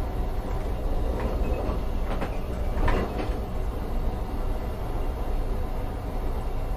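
Train running on rails: a steady rumble with a few clanks about one, two and three seconds in.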